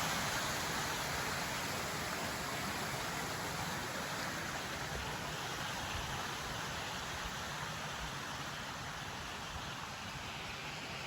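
Rushing water of a river pool and its cascades: a steady hiss that slowly fades.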